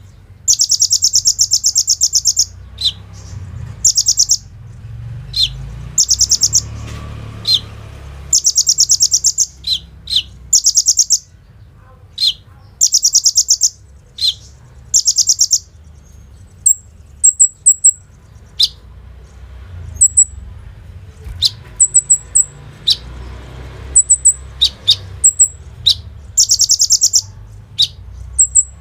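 Kolibri ninja sunbird singing loudly: a string of fast, high rattling trills, each under a second, broken up by sharp single chips. Through the middle the trills give way to short, very high twittering notes, and the rattles return near the end.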